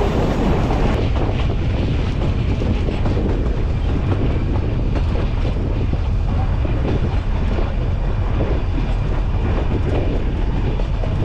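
Nilgiri Mountain Railway train, hauled by a YDM4 diesel locomotive, running along its metre-gauge track: a steady rumble of the coach wheels on the rails.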